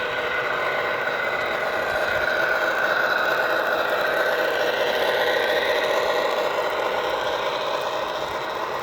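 A train running past, a steady mechanical noise that grows a little louder around the middle and eases near the end.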